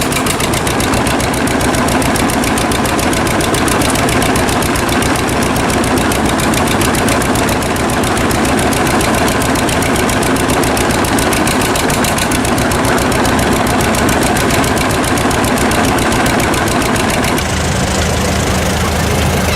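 Antique tractor engine running with a fast, even popping beat. About two seconds before the end its tone shifts and a lower steady note comes in.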